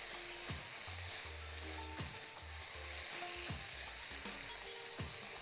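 Liver, onions and freshly added tomato sauce sizzling in a frying pan, stirred with a silicone spatula that scrapes through the mixture in repeated strokes.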